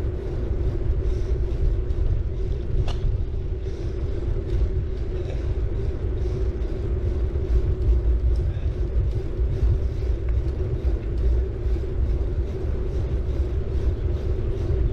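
City bike being ridden, heard from a camera riding on it: a steady low rumble of tyres on the road and wind on the microphone, with a steady hum and faint ticking at about three to four a second. There is one sharp click about three seconds in.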